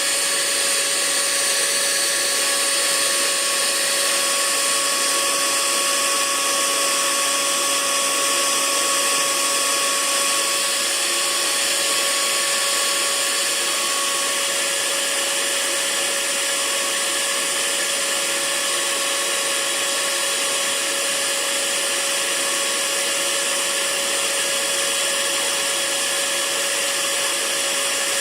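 Hair dryer running steadily: a continuous hiss of blown air with a steady motor hum, and a fainter higher whine that fades out about halfway through.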